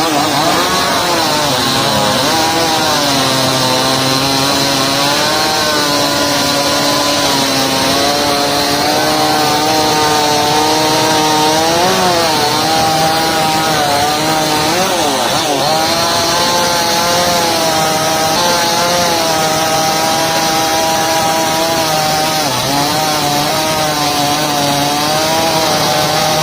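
New West chainsaw running at high revs while cutting wood, its engine pitch holding steady and sagging briefly a few times as the chain takes load.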